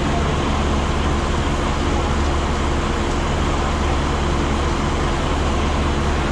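A diesel engine running steadily at idle, a constant low hum with no change in speed.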